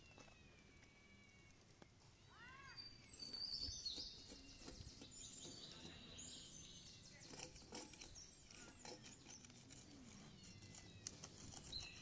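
Faint birds chirping, a few short arching calls and higher chirps, with some soft clicks.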